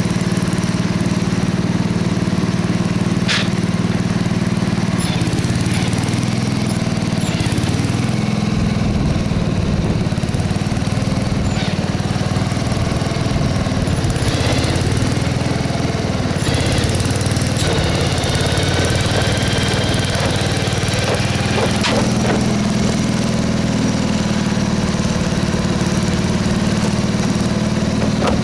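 Bolens 850 lawn tractor's air-cooled Wisconsin engine, about 8¼ horsepower, running steadily just after being started. It has caught after its fuel-fouled spark plug was baked dry and is running nicely.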